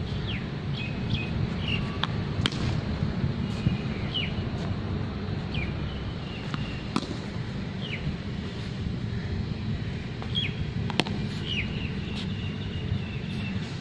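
Small birds calling with short, falling chirps repeated again and again over a steady low rumble, with a few sharp knocks spaced several seconds apart.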